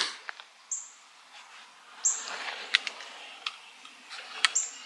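Small songbirds chirping: short, high whistled notes every second or two, with a few sharp clicks in between.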